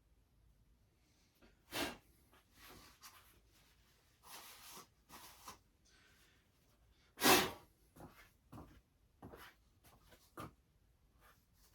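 Scattered small handling noises, rustles and knocks, as things are moved about, with one louder short burst of noise about seven seconds in.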